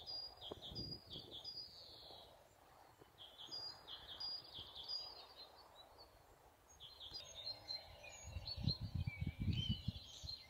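Songbirds singing: one bird repeats a short phrase in two runs, then several birds chirp and twitter together. A cluster of low rumbles comes in near the end and briefly stands out above the birds.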